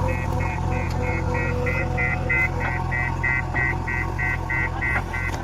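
Heavy machine's diesel engine running steadily under load, with a rapid high electronic beeping repeating about five times a second over it.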